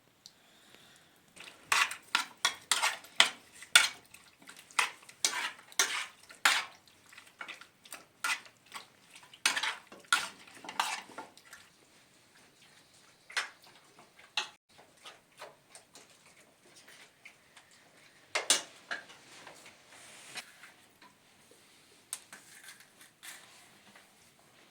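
Metal utensils clinking and scraping against dishes during food preparation: a busy run of quick clinks for about ten seconds, then scattered clinks with one louder knock later on.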